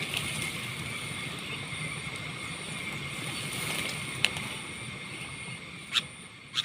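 Steady background hiss with a faint high steady tone, broken by a short click about four seconds in and two more near the end.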